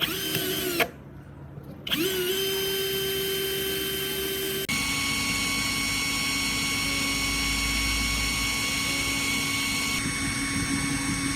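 Electric power tool motor, switched on briefly and off again, then started again and run at a steady high whine. About five seconds in, the pitch drops abruptly to a lower steady whine that holds.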